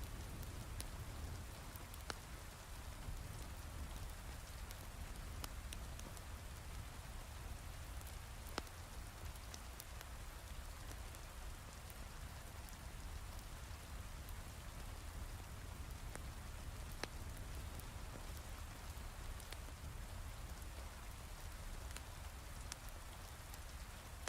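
Steady heavy rain falling, with a low rumble under it and scattered sharp pops and crackles from a wood fire in a fireplace.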